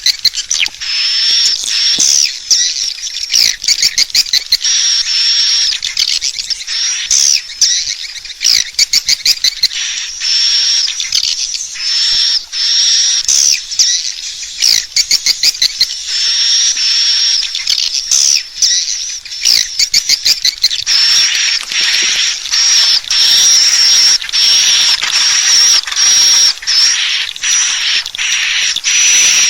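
Swiftlet calls: a dense, high-pitched twittering of rapid chirps and clicks that never lets up. It is the swiftlet call sound used as a lure to draw swiftlets into a swiftlet house to roost.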